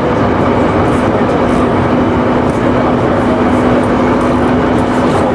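Electric local train running at a steady speed: an even rumble of wheels on rails with a constant low hum held throughout.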